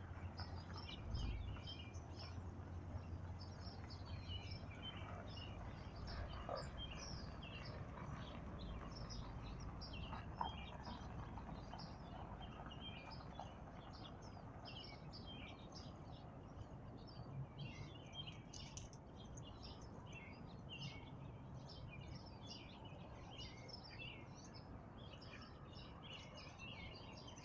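Birds chirping and twittering, many short calls throughout, over a faint steady low rumble of outdoor background noise.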